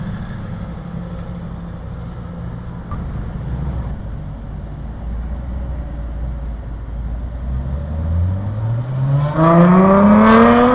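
Sports car engine rumbling at low revs, then accelerating hard about eight seconds in, its note rising steeply in pitch and growing loud near the end.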